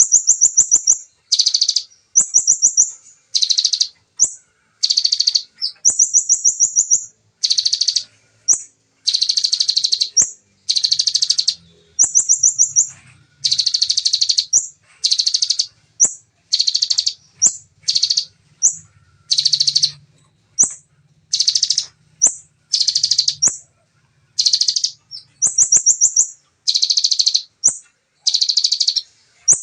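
Bar-winged prinia (ciblek) singing its fast, dense trilled phrases over and over. There is about one high, buzzy burst a second, each under a second long with short gaps between.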